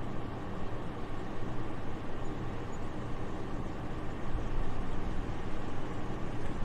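Soft, steady winter wind: an even, airy rush with a low rumble underneath, swelling slightly about four seconds in.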